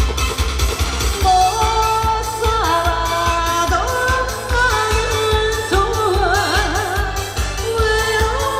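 Trot song performed live: a woman singing over a backing track with a steady bass beat, her voice coming in strongly about a second in and wavering with vibrato.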